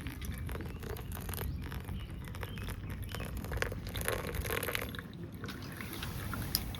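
Scattered light clicks and scrapes over a steady low rumble.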